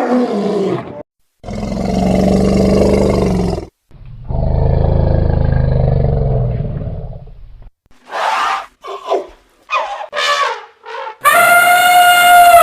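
A run of animal calls: two long, low roars, then a string of short calls, then a long, high, clear-pitched call near the end.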